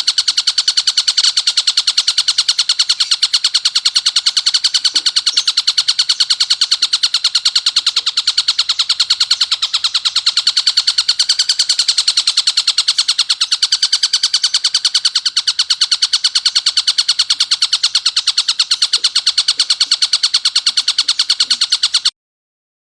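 Tengkek buto kingfisher calling in a harsh, rapid, unbroken rattling series of high, shrill notes that cuts off abruptly near the end.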